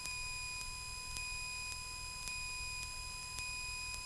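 A steady high-pitched electrical whine in a Cessna 172's headset intercom audio, with faint ticks about twice a second, over the low, muffled rumble of the idling engine.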